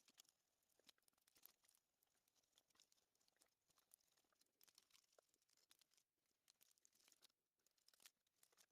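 Very faint crinkling and scratchy ticks of parchment paper as a clothes iron glides over it in circles, melting the perler beads beneath.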